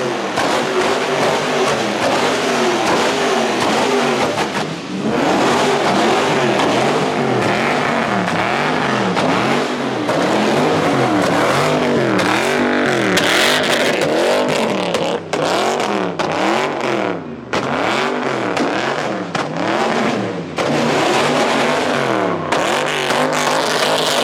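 Car engine revving up and falling back over and over, about once a second, under a steady hiss, with a few brief breaks.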